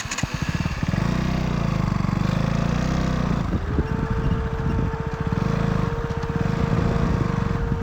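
KTM Duke 200's single-cylinder engine idling steadily, hot after a top-speed run. About three and a half seconds in, a steady whine comes in and holds, fitting the radiator cooling fan switching on with the engine at full heat.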